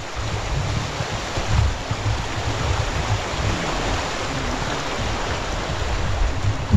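River water rushing in a steady, loud hiss, with wind buffeting the microphone in uneven low rumbles.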